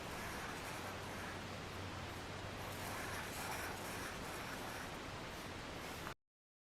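Faint scratching of a pen drawing circles on paper, over steady background hiss and a low hum; the sound cuts off abruptly near the end.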